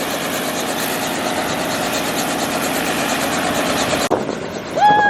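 Helicopter in flight: a steady engine and rotor noise with a rapid, even beating, cutting off abruptly about four seconds in. A short high-pitched call, like a child's voice, follows near the end.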